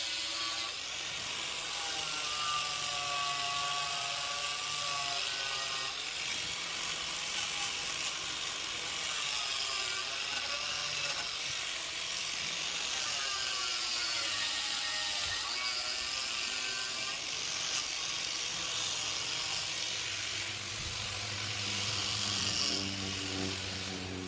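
A handheld power tool running steadily with a hissing whir, its pitch wavering up and down as the load on it changes. A steady low motor hum comes in near the end.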